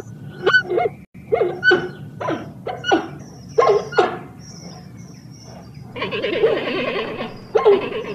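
Giant panda giving a string of short pitched calls, several in quick succession, then a noisier stretch of about a second and a half followed by one more call near the end.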